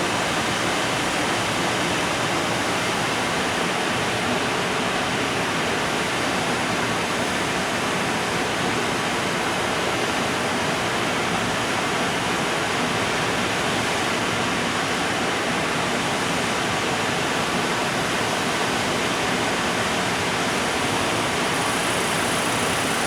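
Freight train of container wagons rolling past on the rails: a steady, even rolling noise at a constant level, without distinct wheel clicks.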